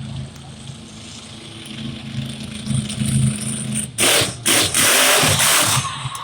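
Monster truck engine rumbling low, then suddenly revving hard and loud about four seconds in.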